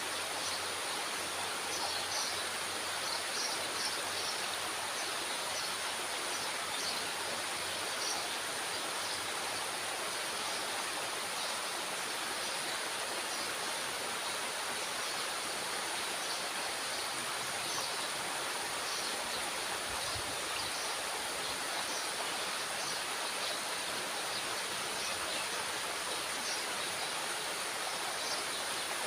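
Water rushing steadily out of a dam's release gate.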